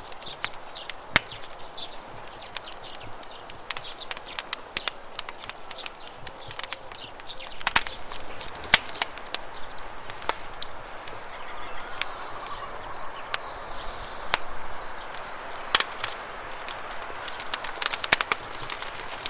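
Campfire crackling: irregular sharp pops and snaps from the burning wood over a steady rush of flowing river water. A high, rapid, even trill joins in about twelve seconds in.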